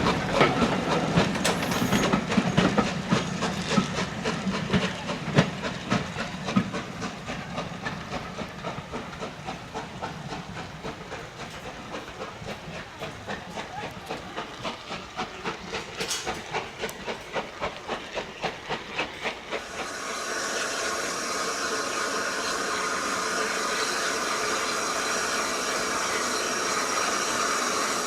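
Steam train passing on the rails, its wheels clicking in a regular rhythm over the rail joints that fades as it draws away. About 20 seconds in this gives way abruptly to a steady hiss of steam.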